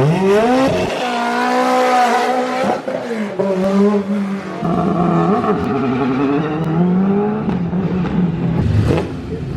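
Rally car launching hard from a standing start and accelerating away through the gears. Its engine note jumps up right at the start, then climbs and falls back at each of several upshifts before fading away.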